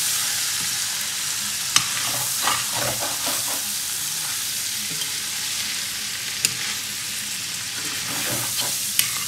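Sliced flat beans and potatoes sizzling as they fry in oil in a pan, with a steady hiss broken by a few sharp clicks.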